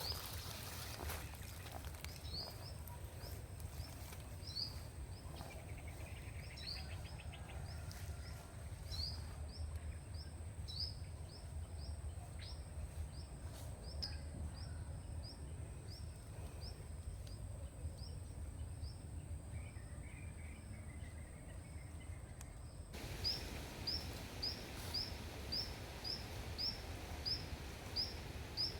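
A small bird repeating a short rising chirp, about once or twice a second and more regular near the end, over a steady low rumble of outdoor background noise. A thin, steady high-pitched tone runs under it and cuts off suddenly about two-thirds of the way through.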